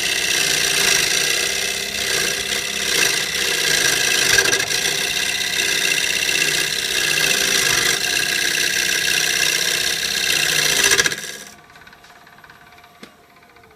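Wood lathe running while a turning tool cuts a spinning piece of oak, giving a steady loud cutting noise over the motor. About eleven seconds in the cutting and motor noise stop abruptly. The spindle then winds down with a faint falling hum, and there is a single click near the end.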